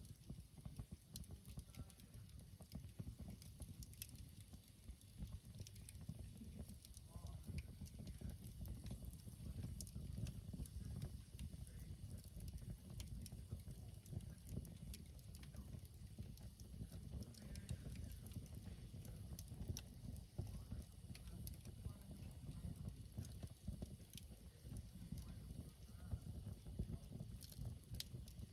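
Campfire burning in a Coleman fire disk, crackling with faint scattered pops and snaps over a steady low rumble.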